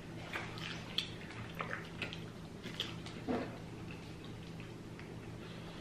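Close-miked eating sounds: wet chewing and lip smacks, a scatter of short clicks through the first few seconds and one fuller smack about three seconds in, over a faint steady low hum.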